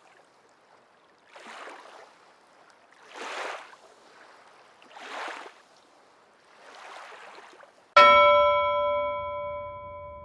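Sound-effect audio: four soft rushing swells like surf washing in, about two seconds apart, then a single bell chime struck about eight seconds in that rings out and slowly dies away.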